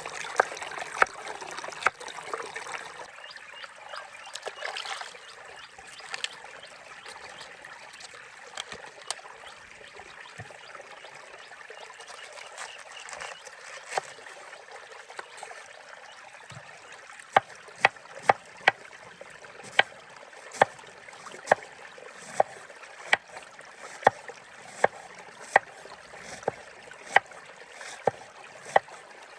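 A steady trickle of running water, with sharp knocks in the second half coming at an even pace, about one every three-quarters of a second.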